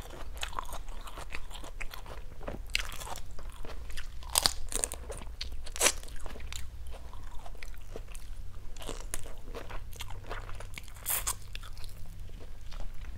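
Close-miked crunching and chewing of salt-and-chili grilled shrimp, with many small sharp crackles scattered through as the shrimp is bitten.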